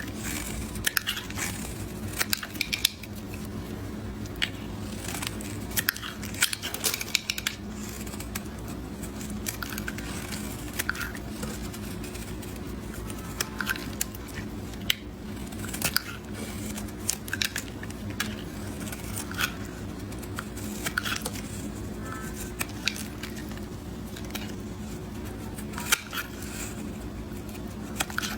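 Knife cutting a bar of soap into small cubes: irregular crisp crunching and cracking cuts, some in quick clusters, over a steady low hum.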